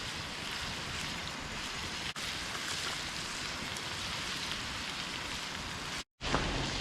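Seasoned chicken pieces sizzling in a hot skillet: a steady hiss that drops out briefly near the end.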